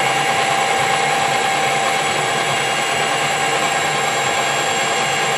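Metalworking lathe running steadily with a constant gear whine while a boring bar takes a finishing pass inside the bore.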